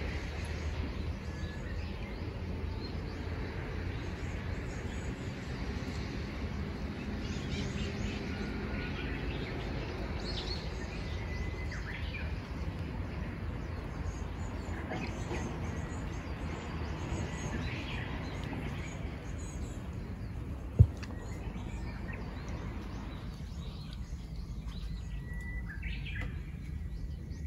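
Birds chirping and calling here and there over a steady low outdoor rumble, with one sharp knock about twenty-one seconds in.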